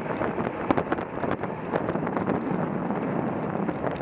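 Wind rushing over a moving camera's microphone during a bike race, with frequent short rattles and knocks from the shaky camera mount.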